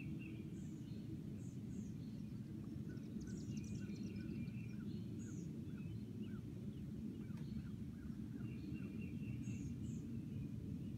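Several small birds chirping and singing in short calls and trills at different pitches, over a steady low background rumble.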